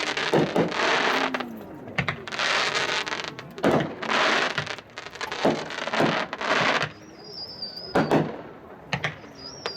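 Two Hot Shot Lion of Judah 12-shot 200-gram consumer cakes firing together: sharp launch thumps at irregular intervals, several followed by about a second of crackling bursts in the air.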